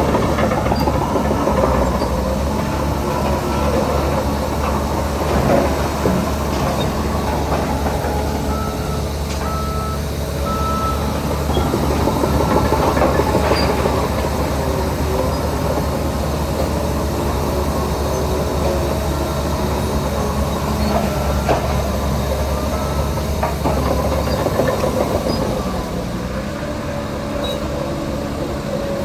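Heavy diesel earthmoving machinery working steadily, a bulldozer and a dump truck, with engine noise throughout. A few short reversing beeps sound about ten seconds in. The deepest engine rumble drops away about 24 seconds in.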